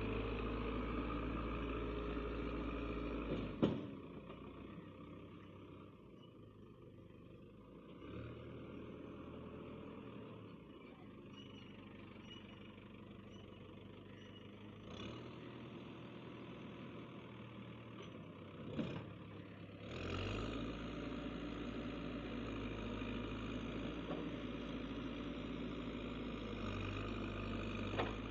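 Diesel engine running steadily. It drops suddenly in level about four seconds in and comes back up near twenty seconds, with sharp clicks at each change.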